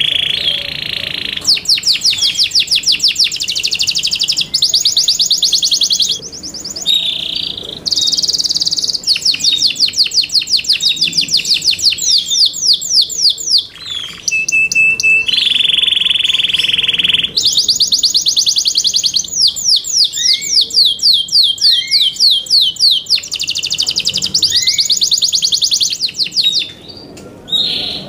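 Yorkshire canary singing loudly: a long song of fast trills, each a run of rapidly repeated high notes, with a few smooth rolling passages and brief pauses between phrases.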